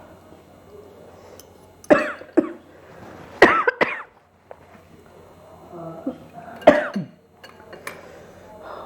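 A person coughing: two sharp coughs about two seconds in, a longer bout of coughs a second later, and one more sharp cough near the end.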